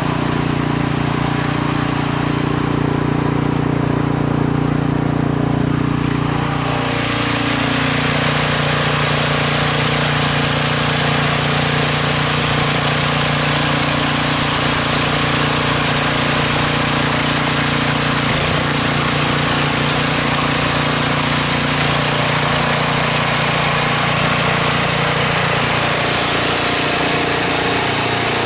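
Snow blower engine running steadily under load, with a rushing noise that grows fuller about seven seconds in.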